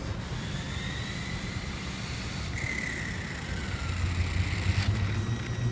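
Whine of an RC drag car's electric motor, rising a little and then dropping in pitch about halfway through as the car slows, over a steady low rumble.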